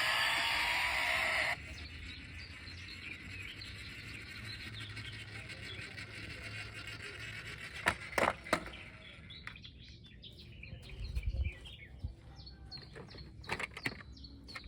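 A loud steady rushing noise cuts off suddenly about a second and a half in. What follows is faint bird chirping, with a few sharp clicks and knocks in the second half.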